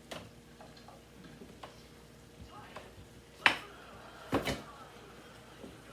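Kitchen handling clatter: a few light clicks, then a sharp knock about three and a half seconds in and a double knock about a second later, like containers or utensils being picked up and set down on a counter.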